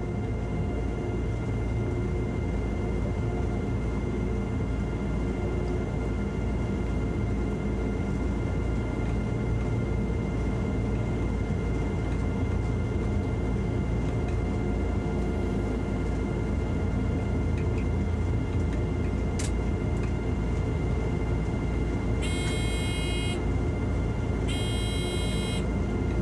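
Electric train running on the track, heard from the driver's cab: a steady rumble with a constant high whine. A single sharp click comes about two-thirds of the way through, and near the end two short pitched tones of about a second and a half each sound one after the other.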